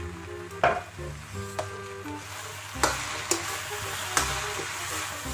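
Vegetable Hakka noodles sizzling as they are stir-fried in a wok, with a metal spatula knocking against the pan four times. The sizzle grows stronger about halfway through.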